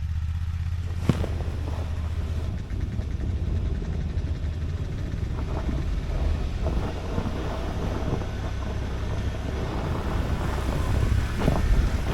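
Tracked side-by-side's engine running steadily under way, with occasional knocks and rattles.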